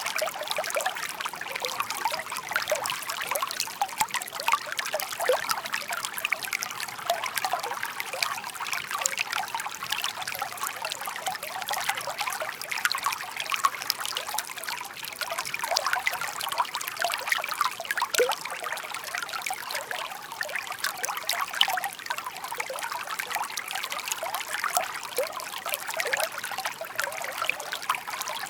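Shallow babbling brook: water trickling and burbling steadily over stones, full of small bright splashes and gurgles.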